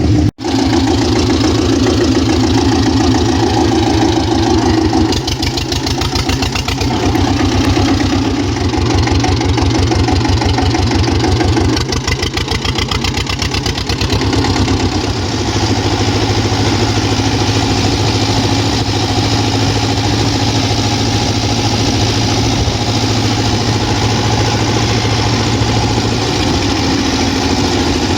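Güldner AZK 8K tractor's diesel engine running through its new oddball exhaust, its even firing beat quickening twice as it is throttled up, then settling into a steady, slower run for the second half.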